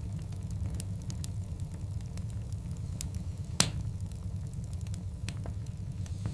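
Wood fire burning with a steady low rumble of flames and scattered crackles, one loud sharp pop a little past halfway.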